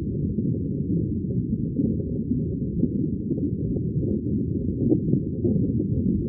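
Underwater ambience of bubbling water: a steady, deep, muffled rumble with no high sounds in it.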